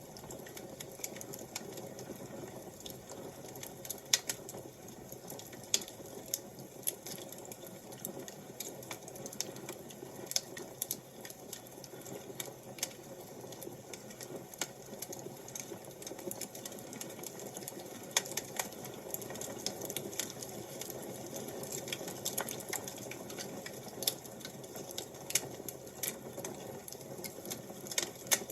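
Wood fire crackling: irregular sharp pops and snaps at uneven intervals over a steady low hiss.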